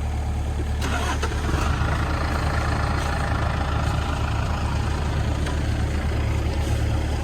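Kubota KX057-4 mini excavator's diesel engine running steadily.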